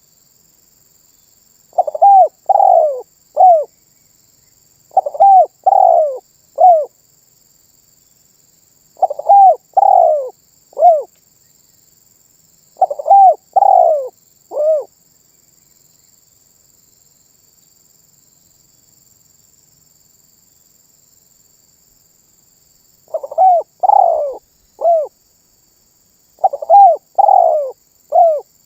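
Spotted dove cooing in its rhythmic 'manggung' song: six short phrases of three or four falling coos each, repeated every few seconds, with a pause of about eight seconds in the middle.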